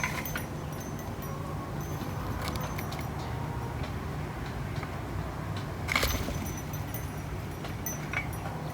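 Outdoor background of a steady low rumble with a few scattered sharp taps or clicks, the loudest about six seconds in.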